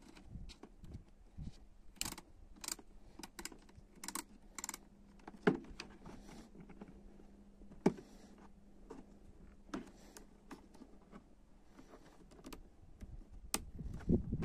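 Irregular light clicks and taps, with two sharper knocks about five and a half and eight seconds in, over a faint steady hum; a louder rustling noise starts near the end.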